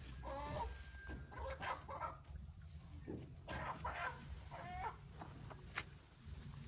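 Chickens clucking in several short calls, with a few brief high chirps from small birds and a low steady hum underneath.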